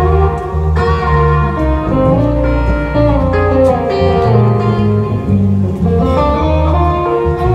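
Instrumental break in a slow country ballad: a guitar picks the melody in separate plucked notes over a steady bass line.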